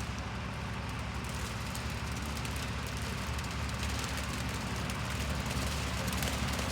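John Deere 4020 tractor running steadily with its gyro mower cutting, a continuous engine drone with a noisy whir, getting slightly louder toward the end.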